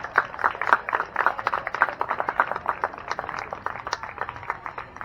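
Spectators clapping, a quick irregular patter of hand claps that thins out and fades near the end.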